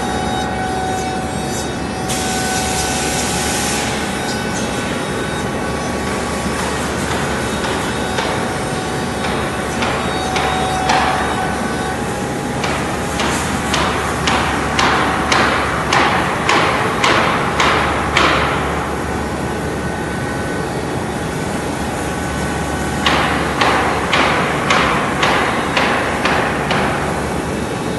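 CNC stone-working machine running on marble, with a steady machine noise and whine. Two runs of sharp, rhythmic strikes, about two a second, come partway through and again near the end.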